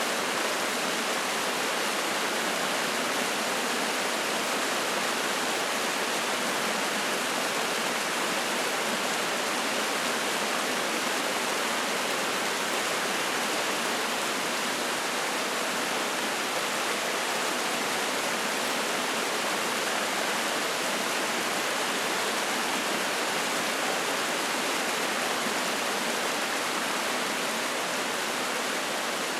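Mountain stream rushing and splashing over rocks: a steady, even water noise without breaks.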